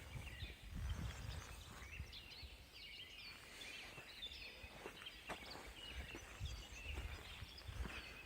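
Faint chirping of several small birds, many short high calls overlapping, over a low rumble.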